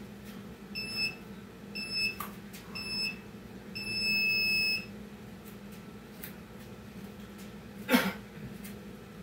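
Electronic workout interval timer beeping: three short beeps about a second apart, then one longer beep, the usual countdown pattern. A single sharp knock follows near the end.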